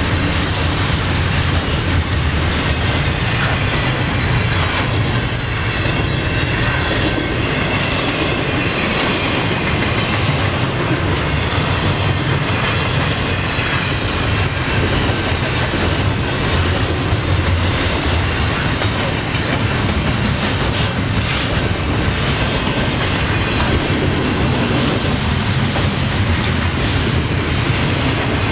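Empty coal hopper cars of a freight train rolling past at speed: a steady heavy rumble with wheels clicking over the rail joints and a few brief high wheel squeals.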